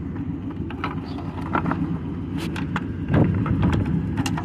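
Pickup truck engine idling steadily, with scattered clicks and knocks and a louder knock about three seconds in. The engine is running funny.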